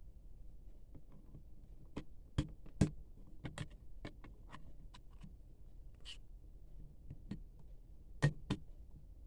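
Hands handling small unboxed items (a phone stand and headsets and their packaging): scattered clicks and taps, the loudest a pair about two and a half seconds in and another pair near the end, with a brief rustle about six seconds in.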